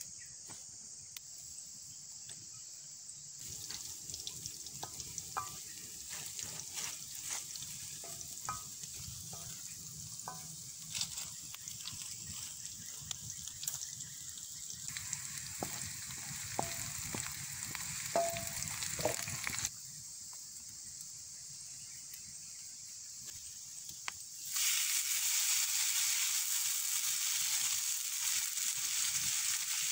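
Food frying in oil in a small wok over an open wood fire: a steady sizzle with scattered crackles and pops. Near the end the sizzle turns much louder as chopped rattan shoots go into the hot pan.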